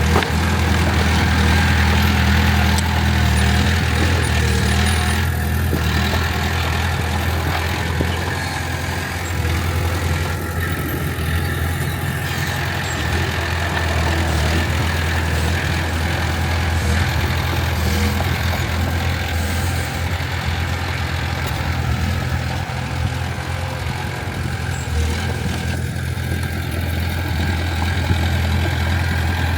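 Diesel engine of heavy earthmoving machinery running steadily, with a strong low hum and mild rises and falls in level.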